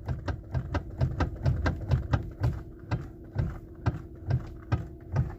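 Knocking and clicking from a Lexus ES350's electric power steering column as the wheel is turned: a rapid, uneven run of sharp knocks, several a second. The rubber coupling piece inside the steering motor is broken into fragments.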